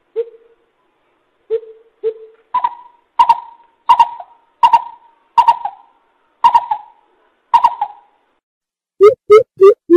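Coucal calling: a few single deep hoots, then a series of higher hooting notes about one every 0.7 seconds, then a quick run of deep hoots starting near the end. This is a decoy call recording used to lure coucals into traps.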